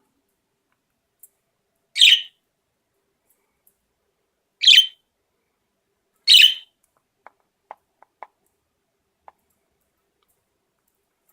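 Budgerigar giving three short, loud chirps, a couple of seconds apart, followed by a few faint short ticks.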